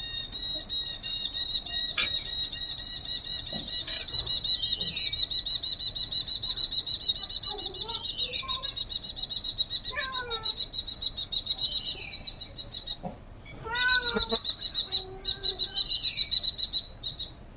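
Rapid high-pitched chirping, many chirps a second, broken briefly about two-thirds of the way through. A few lower, mewing calls come about ten and fourteen seconds in.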